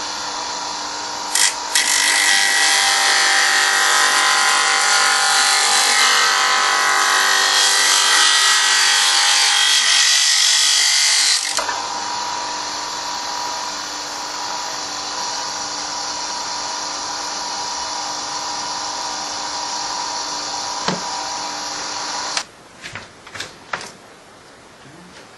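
Electric vibrating sander converted into a mini lawn mower, running steadily with a buzzing whine. It is louder and harsher for the first half, then quieter, and switches off near the end, followed by a few short clicks.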